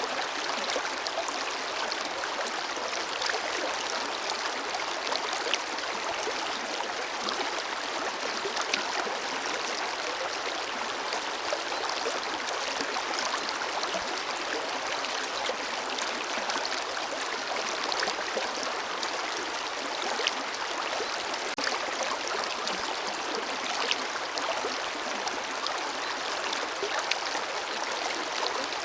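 Forest river flowing steadily over rocks, a continuous rushing with small splashes and gurgles scattered through it.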